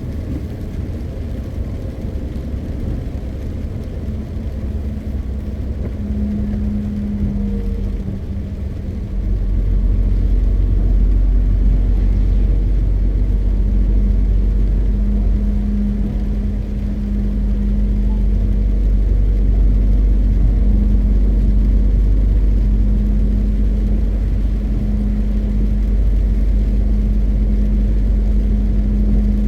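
MAN TGX 520 truck's six-cylinder diesel engine running with road noise, a steady low drone with a humming tone. About nine seconds in, a deep rumble comes in and the sound grows louder and stays there.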